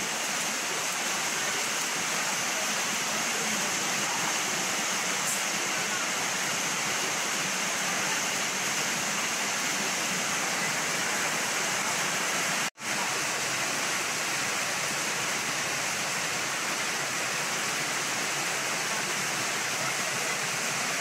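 Steady rain falling, an even hiss with no change in strength, broken by an instant's silence about thirteen seconds in.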